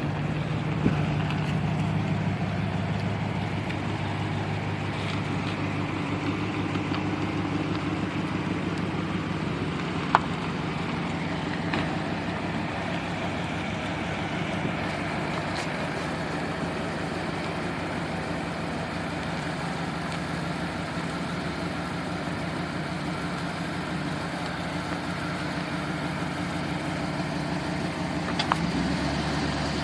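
1977 Lincoln Continental Town Car's V8 engine running steadily, with a few light clicks along the way.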